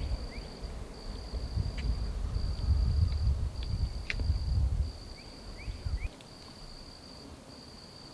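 An insect calling in a high, steady trill, repeated in pulses about a second long with short gaps, with a few short rising bird chirps. A low irregular rumble, the loudest sound, runs underneath and drops away about six seconds in.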